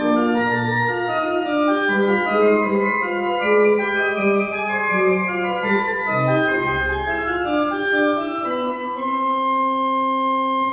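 Organ playing a slow piece in sustained chords, settling on a long held final chord near the end.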